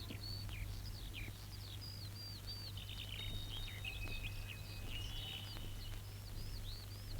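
Faint birdsong: many quick chirps and short whistles, some held briefly, over a steady low hum.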